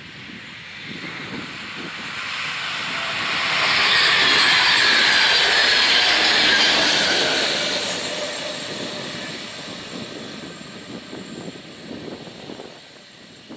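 NS DDAR double-deck electric passenger train passing over the rails: the rolling noise builds over a few seconds, is loudest for about three seconds as the coaches go by, then fades away.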